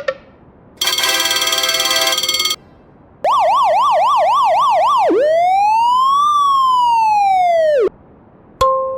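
Electronic police siren sound effects: a harsh buzzing horn blast, then a fast yelping siren rising and falling about three times a second, then one slow rising and falling wail. A click and a steady electronic beep start near the end.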